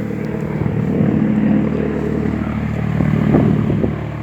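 Helicopter flying over, a loud steady drone with several pitched tones from its rotor and engine.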